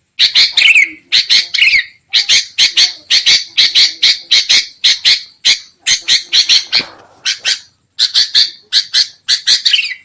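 Sooty-headed bulbuls (kutilang) in noisy 'ribut' calling: fast runs of short, harsh chattering notes, a few with a downward-sliding whistle, with a brief lull about three quarters of the way in. This is the excited calling used as a lure call to draw in wild bulbuls.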